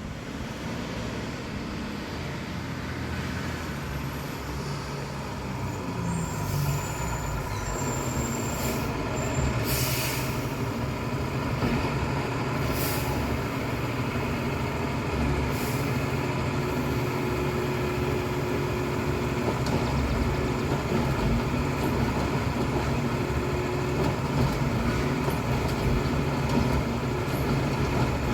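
Freightliner 108SD garbage truck's diesel engine running steadily, its pitch rising briefly about six seconds in, with several short hisses of released air, the loudest about ten seconds in.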